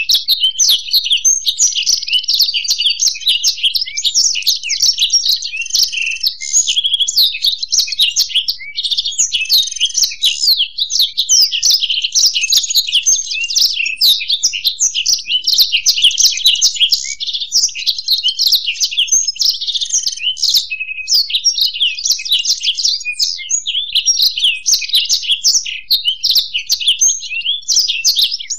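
Blackthroat and European goldfinch singing together: a long, unbroken stream of rapid high-pitched chirps and trills.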